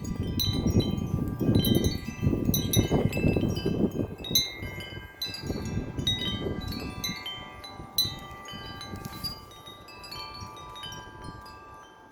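Metal wind chime tubes struck over and over by strong wind, with overlapping ringing tones. Wind buffets the microphone with a low rumble that eases about halfway through, leaving the chimes ringing more clearly.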